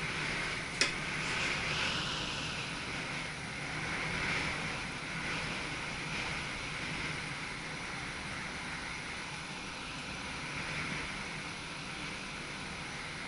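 Running noise inside the cab of an SGM (Sprinter) electric multiple unit: a steady rushing of wheels on rails and air, with a low hum underneath and one sharp click about a second in.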